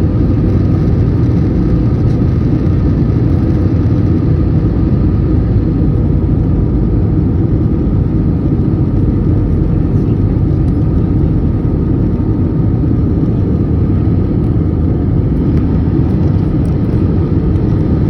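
Jet airliner cabin noise heard from a window seat: a loud, steady rumble and whir of engines and rushing air, with faint steady tones and no change in level.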